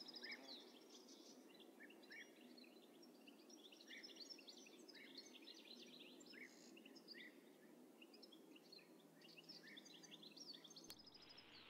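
Faint birds chirping, many short calls scattered throughout over quiet background noise.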